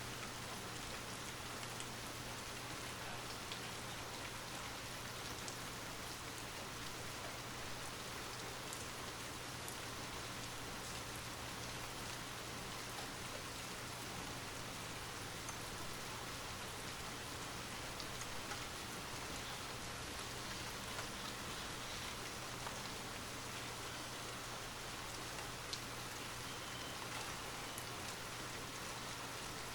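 Light rain falling steadily: an even hiss scattered with the ticks of single drops.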